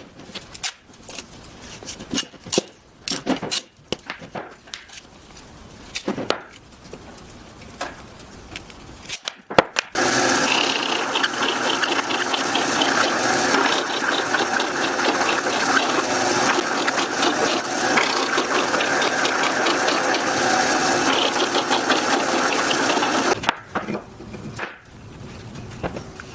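Scattered knocks and clatter of wood being handled, then a power tool that starts suddenly about ten seconds in, runs steadily for about thirteen seconds and stops.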